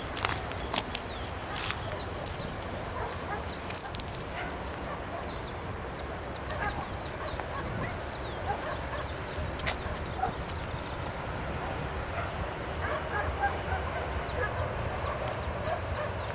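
Outdoor bird calls, many short chirps and fowl-like calls overlapping throughout, with a few footsteps or knocks in the first seconds.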